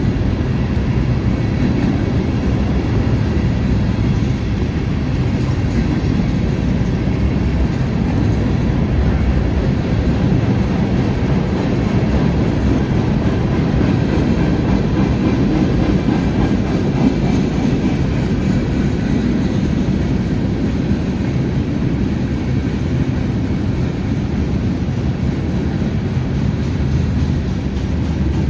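Freight train cars rolling past close by: a steady, continuous rumble of wheels on the rails.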